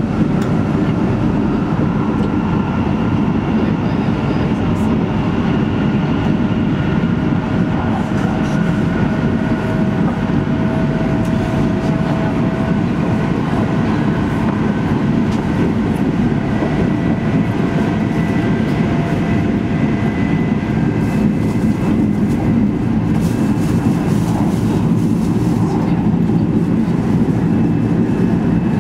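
Cabin noise inside an E2 series Shinkansen running at speed: a steady, even rumble with faint whining tones that drift slowly in pitch.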